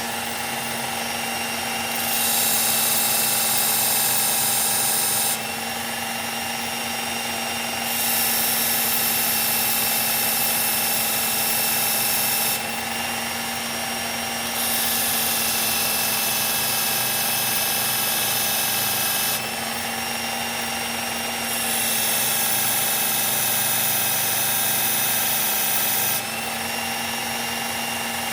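Electric belt sharpener running steadily, with a knife blade pressed to the moving abrasive belt in four grinding passes of about four to five seconds each; the grinding hiss comes and goes between passes while the motor hum stays.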